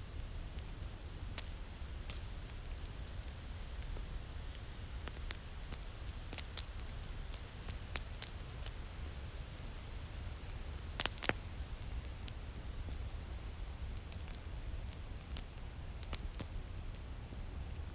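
Crackling fire, irregular sharp pops and snaps over a steady low wind rumble; the loudest is a quick double pop about eleven seconds in.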